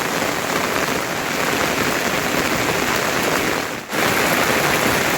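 Heavy rain falling, a steady dense hiss. It dips briefly about four seconds in and comes back slightly louder.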